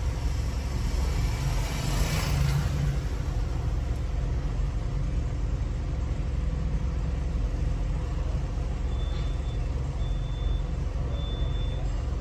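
A car's engine idling, heard from inside the cabin as a steady low rumble while the car stands in stopped traffic. A motorcycle passes close alongside, swelling loudest about two seconds in. Near the end a short high-pitched beep repeats about once a second.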